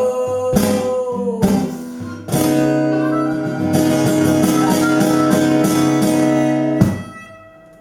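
Guitar playing the closing bars of a slow blues song: strummed chords, then picking over a held final chord that stops short near the end.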